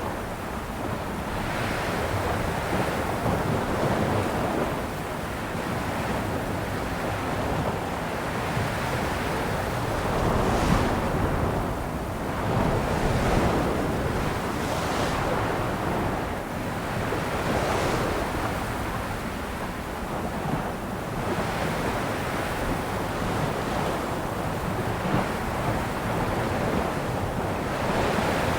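Sea waves breaking and washing on a shore, a steady surf noise that swells and eases every few seconds, with wind buffeting the microphone.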